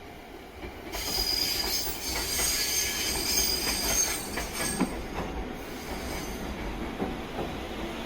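Hokusei Line 762 mm narrow-gauge electric train running, its wheels squealing on the rails from about a second in until about five and a half seconds, over a steady low running rumble.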